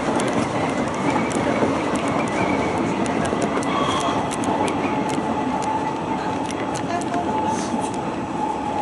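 Inside a Hanshin Railway express train running at speed: a steady rumble of wheels on rail with frequent short clicks from the track. A thin steady whine grows in the second half.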